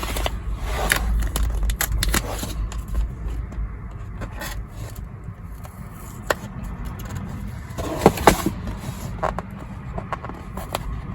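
Hands working at a paper-and-cardboard package, peeling and scraping at its sticker seal, with crackling and scattered sharp clicks. A low rumble of wind and passing traffic runs underneath, heaviest in the first few seconds.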